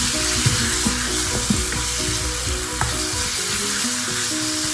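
Coarsely blended chili paste sizzling in hot oil in a frying pan while a spatula stirs it, scraping and knocking against the pan now and then. The chilies are being sautéed until cooked.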